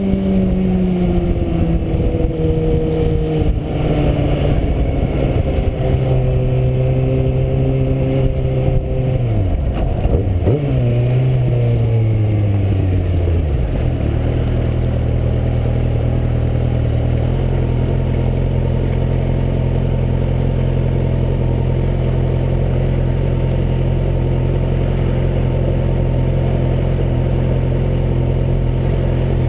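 2009 Kawasaki Ninja ZX-6R's inline-four engine slowing with a falling pitch, with a quick drop and jump in revs about ten seconds in. It then settles to a steady low running note from about halfway through.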